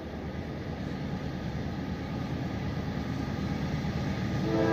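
Approaching freight train: the low rumble of its diesel locomotives grows steadily louder between horn blasts, and the horn sounds again near the end.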